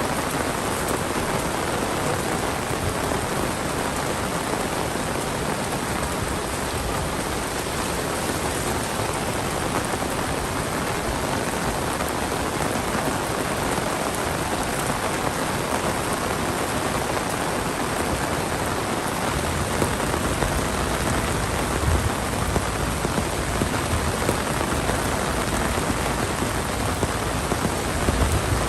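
Heavy monsoon rain falling in a steady downpour. In the last third there are a few low thuds underneath the rain.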